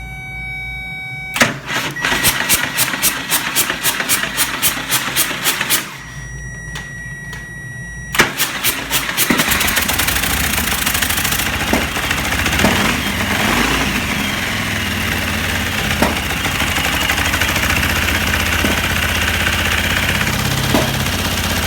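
A 147 cubic inch V-twin motorcycle engine being started for the first time. The starter cranks it for about four seconds without it catching, then stops. About two seconds later it cranks again and the engine fires and keeps running, with a few brief blips of throttle.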